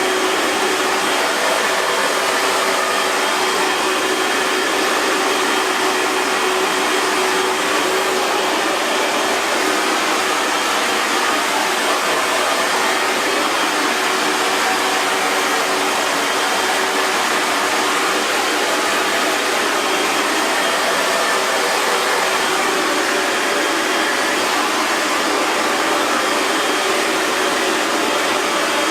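Hair dryer running steadily at one setting: an even rush of blown air with a faint motor hum underneath.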